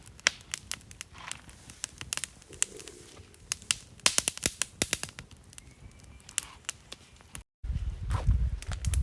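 Wood fire crackling and popping in a fire pit, irregular sharp snaps over a quiet background. After a short break about seven and a half seconds in, a louder low rumbling noise takes over.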